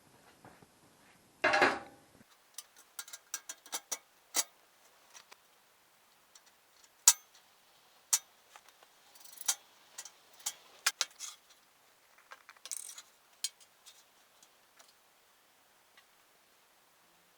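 Tools and parts being handled on a workbench: a short, louder clatter about one and a half seconds in, then scattered sharp clicks and light knocks.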